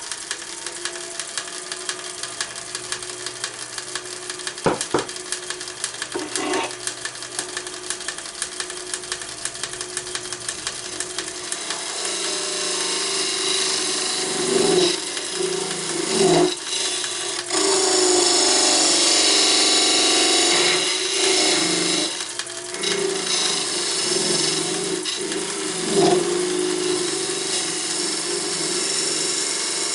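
Wood lathe running at raised speed while a turning tool cuts the spinning wooden workpiece. The cutting is light and ticking at first, then grows louder and more continuous from about twelve seconds in, rising and falling as the tool is pressed into the wood, with a single sharp knock early on.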